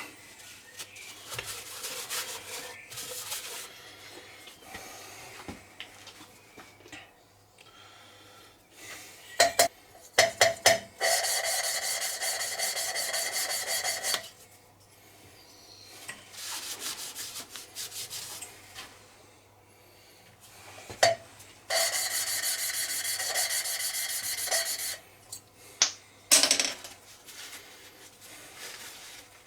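A valve being lapped into its seat in a cast-iron Kubota diesel cylinder head with grinding paste: gritty rubbing and scraping in spells, with a few knocks and two louder, longer stretches of a few seconds each. The valve is lapped round a bit at a time to get an even seal all the way round.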